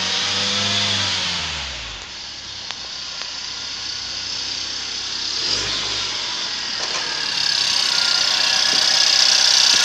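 LDV G10's 2.0-litre four-cylinder engine running on test, which it passed. It revs and falls back to idle in the first two seconds, and blips once about five and a half seconds in. A loud steady hiss builds from about seven seconds in, near the open engine bay.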